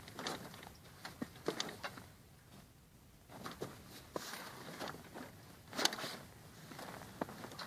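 Irregular light footsteps and knocks, a few a second at most, with a quieter stretch in the middle.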